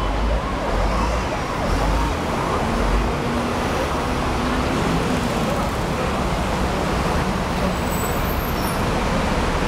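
Busy road traffic: a steady rush of passing vehicles, with a heavy low engine rumble during the first three seconds.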